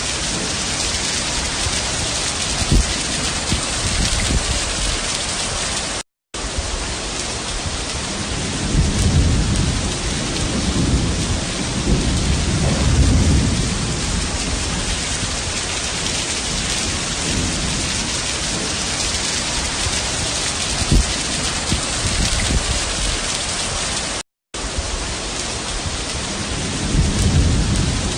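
Heavy rain pouring steadily, with low rolling rumbles of thunder swelling about a third of the way in and again near the end. The sound drops out for a split second twice.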